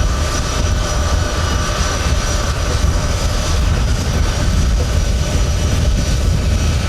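The four turbofan engines of a C-17 Globemaster III running steadily: a loud, even low rumble with faint whining tones held above it.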